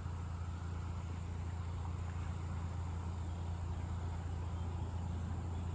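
Quiet outdoor ambience: a steady low hum with faint, continuous insect chirping.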